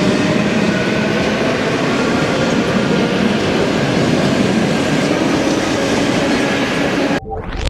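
ED4M electric multiple unit running on the rails: a steady, loud rail and running-gear noise. It cuts off abruptly about seven seconds in, with a brief rising sweep.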